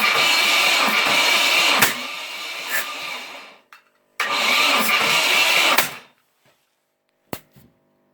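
UAZ engine being cranked by its starter motor, a whirring, steadily pulsing churn in two attempts: the first is cut off by a click about two seconds in and winds down over a second or so, the second runs about a second and a half and stops abruptly. A single click follows, and the engine doesn't keep running.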